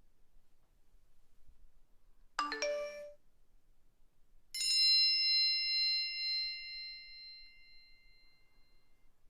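Mobile phone ringtone sounds: a short run of quick electronic notes about two seconds in, then a single bright bell-like chime a couple of seconds later that rings on and slowly fades away.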